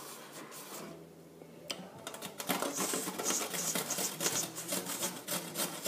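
Close-up chewing of a mouthful of pasta bake: rapid wet smacks and clicks of the mouth, starting about two seconds in and growing louder.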